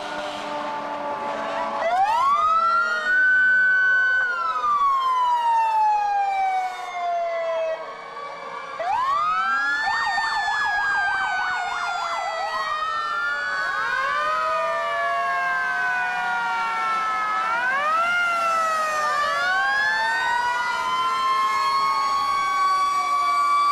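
Several fire engine sirens wailing together, overlapping. Each rises quickly in pitch and then falls away slowly over several seconds, with fresh rises starting every few seconds.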